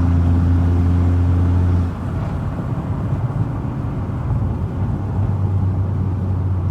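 Car engine and road noise heard from inside the cabin while driving. A steady low engine drone drops away about two seconds in, leaving rumbling tyre and road noise, and comes back near the end.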